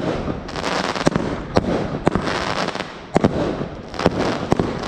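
Fireworks going off: about six sharp bangs, irregularly spaced, over a continuous crackling and popping haze.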